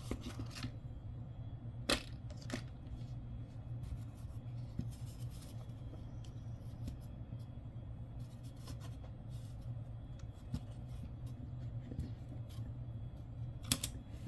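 Faint clicks and taps of nickels being handled and set down, over a steady low hum, with a sharper click about two seconds in and a few more clicks near the end.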